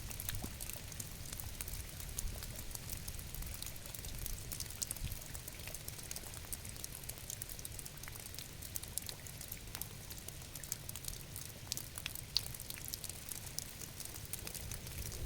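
Steady rain with many small drops ticking and pattering over a low, even rumble.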